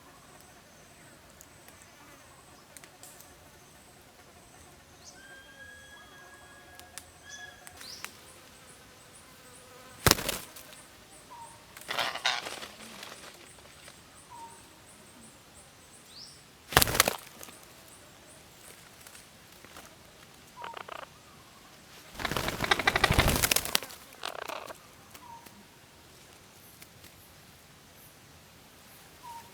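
Faint bird chirps and short whistled calls, broken by two loud sharp cracks and by bursts of rustling or wing flapping, the longest lasting about two seconds.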